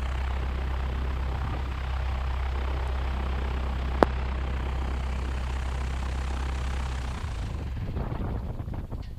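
Cessna 172's piston engine idling steadily with its propeller turning, with one sharp click about four seconds in. Near the end the steady drone breaks up into uneven pulses and dies away as the engine is shut down.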